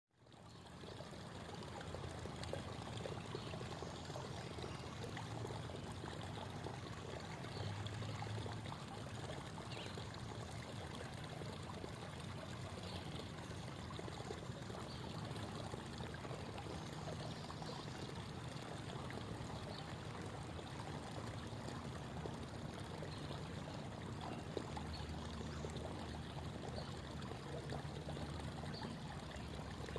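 Creek water babbling and trickling over stones, a steady flowing sound that rises back in from a brief silence at the very start.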